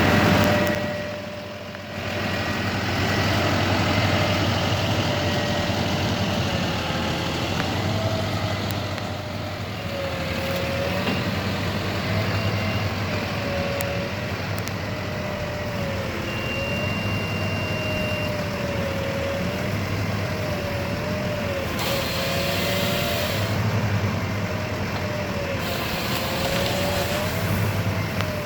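Effer crane truck running: a steady engine drone under a whine that wavers up and down in pitch, with a hiss for a few seconds near the end.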